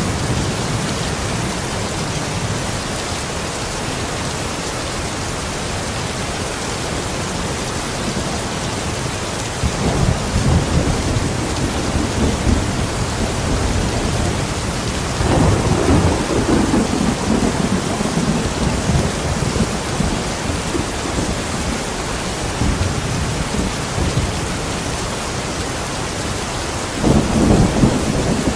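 Steady rain hissing, with rolling thunder rumbling in three swells: about ten seconds in, most strongly around fifteen seconds, and again near the end.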